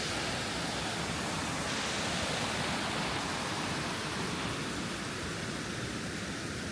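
Steady rushing of water from a small waterfall, an even noise without breaks.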